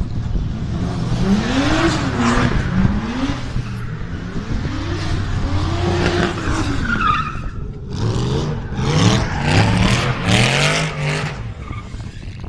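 Drift cars at full slide: engines revving up and down over and over, with tyre squeal and skidding noise. A quick run of sharp revs comes about two-thirds of the way in.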